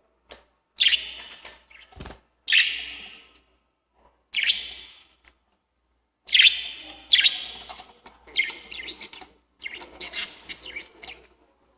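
Lovebirds giving shrill, harsh chirping calls: three short bursts in the first half, then a near-unbroken run of chirps over the last five seconds. A brief low knock sounds about two seconds in.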